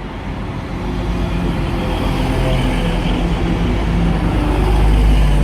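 A British Rail Class 158 diesel multiple unit approaching along the platform, its underfloor diesel engine running with a deep rumble that grows steadily louder.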